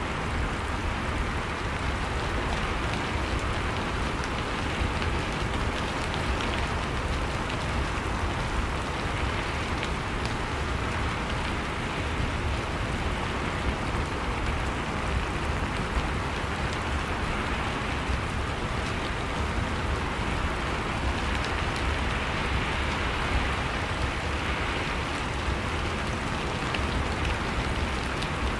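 Steady, heavy rain falling on surfaces, a dense even hiss with many small drop ticks throughout.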